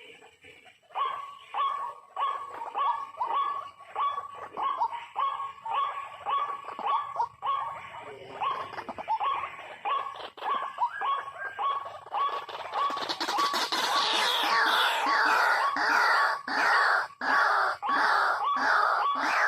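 White-breasted waterhen calls: a run of short, repeated croaking notes, about two a second, which swell about two-thirds of the way through into a louder, fuller burst of rapid, harsh calls.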